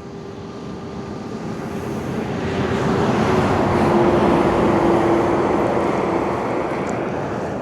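A road train (a multi-trailer truck) approaching and passing: its engine and tyre noise swell to a peak about four seconds in, then fade as it goes away, with a droning tone that drops slightly in pitch as it passes.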